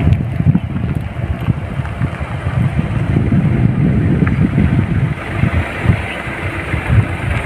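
Wind buffeting the microphone: a loud, irregular low rumble that rises and falls in gusts.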